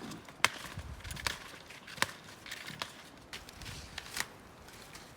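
Backcountry skier skinning uphill: sharp clicks of the touring gear and pole plants in snow, coming about once a second with uneven spacing.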